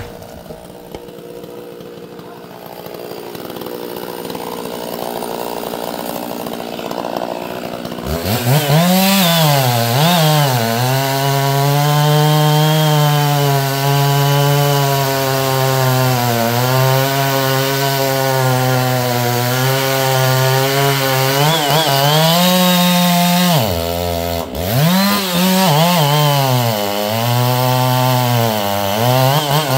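Two-stroke chainsaw cutting wood. About eight seconds in it revs up loud, and its pitch keeps sagging and recovering as the chain bogs in the cut. About two-thirds of the way through it drops almost to idle, then revs again. Before it revs up there is a quieter, even hiss.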